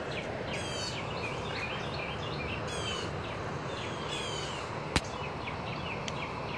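Small birds chirping over and over, short quick falling notes, over a steady outdoor background hiss. One sharp click about five seconds in.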